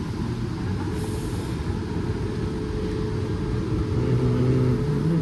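Electric commuter train at the station platform: a steady low running hum, with a brief hiss of air about a second in.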